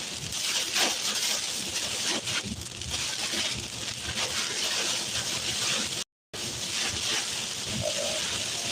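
Heavy storm rain coming down hard, a steady dense hiss that cuts out for a moment about six seconds in.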